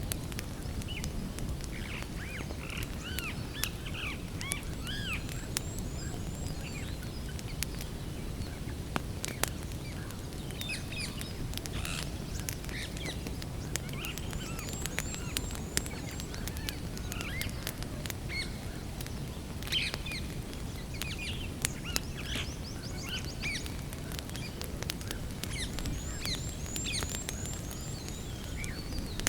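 Wood campfire crackling with frequent sharp pops over a steady low rush. Songbirds chirp throughout, and a high, rapid run of notes comes three times.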